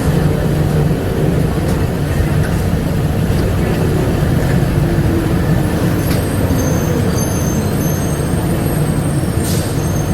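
Bombardier APM100 rubber-tyred people-mover car in motion, heard from inside: a steady low running rumble from the tyres and drive. From about six seconds in, faint thin high tones whine over the rumble.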